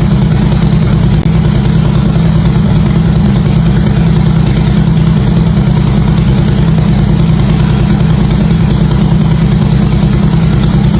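Harley-Davidson V-twin motorcycle engine running steadily through its exhaust, with an even, unchanging low note and no revving.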